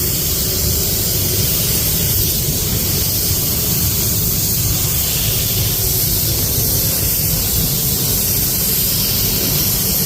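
Compressed-air paint spray gun hissing steadily as it sprays epoxy primer onto bare metal, with a steady low rumble underneath.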